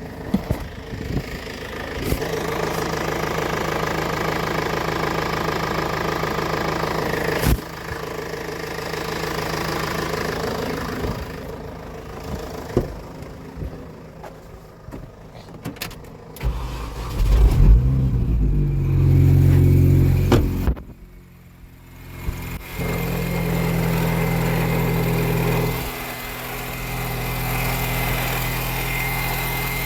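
Mini Cooper's 1.6-litre four-cylinder petrol engine running freshly installed after an engine swap. Its speed and level shift several times, with a louder stretch around 17 to 20 seconds in; it drops away about 21 seconds in, then runs steadily again.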